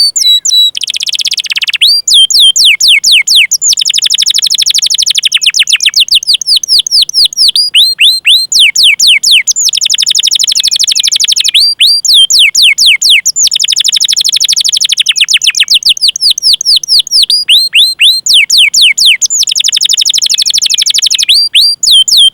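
Domestic canary singing: fast rolling trills alternate several times with runs of quick, downward-sweeping 'cuit' call notes, high-pitched and loud, cutting off abruptly at the end.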